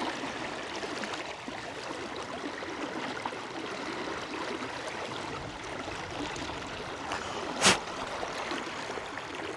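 River water running over a shallow riffle, a steady rushing sound. A single short, sharp knock stands out about three-quarters of the way through.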